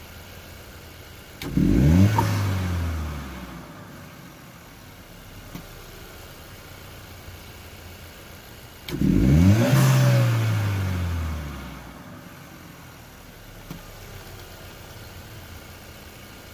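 2020 Chevrolet Equinox's 1.5-litre turbocharged four-cylinder idling, then revved sharply twice, about seven seconds apart; each rev climbs quickly and drops back to idle over about two seconds. It is breathing through a K&N drop-in filter in a stock airbox with holes cut in its lower half.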